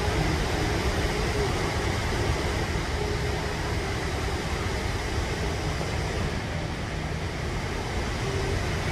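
Steady rushing of a large waterfall: a continuous, even wash of falling water, heaviest in the low end.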